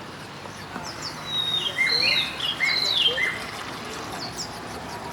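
A bird singing a short phrase of arched whistled notes for about two seconds in the middle, over steady short high chirps from other birds.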